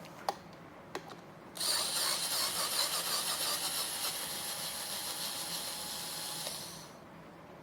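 Cordless drill-driver, set to clutch level 6, running for about five seconds as it drives out a chair screw, preceded by two small clicks.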